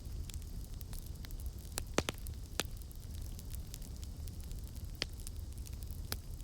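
Campfire burning with a steady low rumble of flames and irregular crackles, with a few sharper pops of burning wood about two seconds in, around five seconds and near the end.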